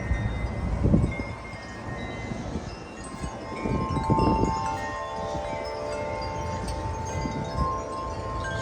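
Tubular wind chime ringing in gusty wind. Its tubes strike and ring on in several overlapping sustained notes, heaviest from about halfway in, with gusts rumbling on the microphone.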